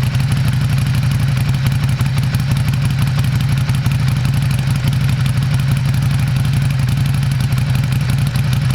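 Ducati Scrambler Desert Sled's air-cooled 803 cc L-twin idling steadily through its exhaust.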